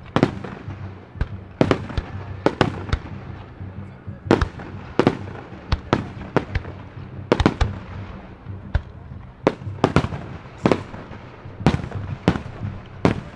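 Aerial firework shells going off in a steady barrage of sharp bangs, irregularly spaced at about one or two a second, over a low steady hum.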